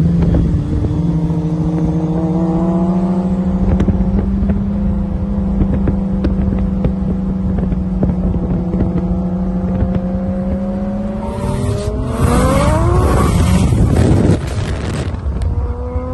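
Race car engine running hard on track, holding a steady high drone, then climbing steeply in pitch as it accelerates about eleven seconds in, joined by a loud rushing noise, before falling back near the end.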